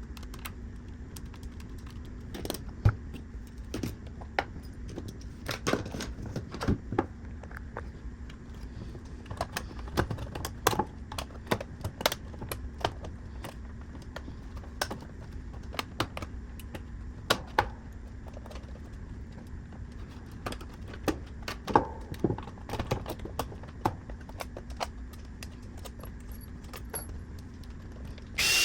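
Scattered light clicks and clinks of small metal parts and tools being handled, at irregular intervals over a steady low hum.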